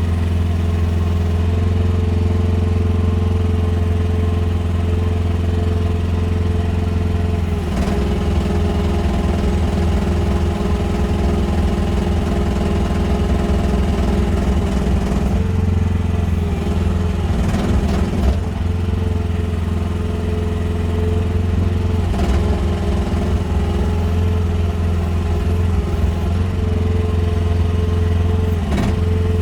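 QH13R mini excavator's engine running steadily. Its note sags briefly several times under hydraulic load, with knocks and clatter as the machine handles logs.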